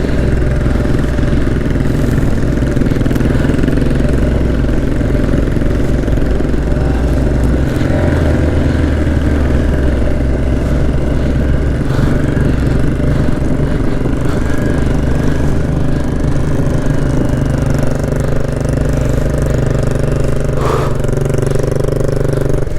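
Motorcycle engine running steadily under way, its low note shifting about 8 s in and again near 18 s.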